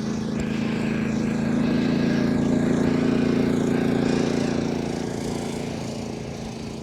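An engine passing by, a steady hum that swells to its loudest about halfway through and then fades.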